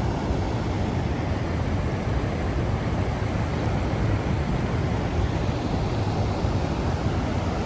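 Steady wind noise buffeting the microphone, a low rumbling hiss with no distinct tones.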